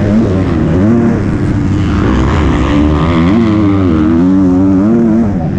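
Motocross bike engine revving hard and dropping back again and again as the rider works the throttle around the track, its pitch rising and falling every second or so.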